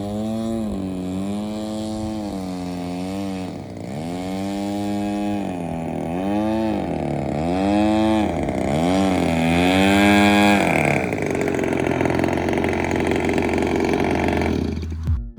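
A 20cc single-cylinder two-stroke gas engine on an RC model airplane runs with its pitch rising and falling repeatedly as the throttle is worked up and down. Later it settles into a steadier, noisier high-power run that cuts off suddenly near the end.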